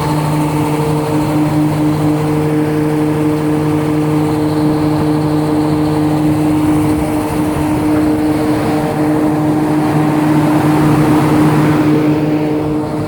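Large diesel engine of a 1250 kVA Gesan generator set running steadily at constant speed, an even deep drone with a fixed pitch.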